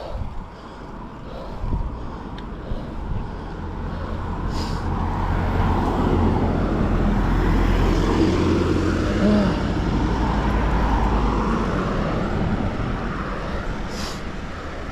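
A motor vehicle passing on the road: its rumble and tyre noise build over several seconds, peak mid-way, then fade away.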